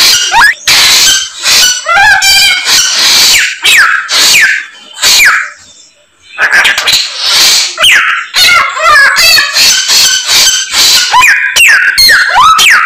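Samyong songbird singing loudly in full mimicking song, a fast string of varied whistles, trills and sweeping, falling notes, with a short pause about six seconds in.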